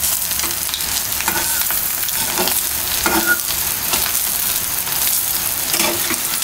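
Egg fry sizzling in hot oil in a wok, a steady hiss, with a metal spatula scraping against the pan several times as the egg is pressed and turned.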